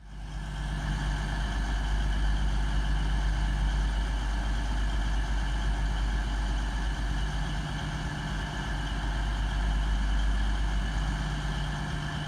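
Diesel engines of a Class 222 Meridian train running steadily at the platform: a deep, even engine hum with steady tones, starting abruptly at the beginning.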